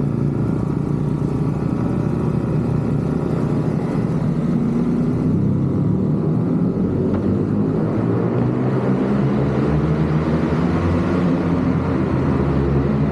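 Motorcycle engine running steadily on the move, a continuous low engine note with a rumble underneath.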